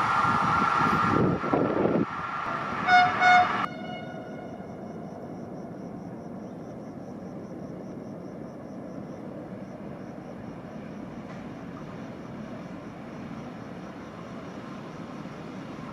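A train passing through the station at speed, its rushing noise cutting off about two seconds in, followed by two short blasts of a train horn. After that a quieter steady rumble remains, with a faint high-pitched pulsing tone.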